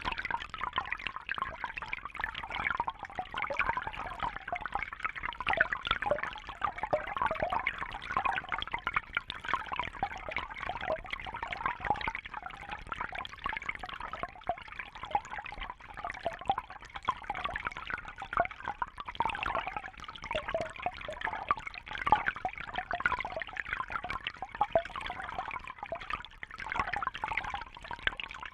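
Water trickling and bubbling steadily, a busy patter of small splashes and droplets with no pauses.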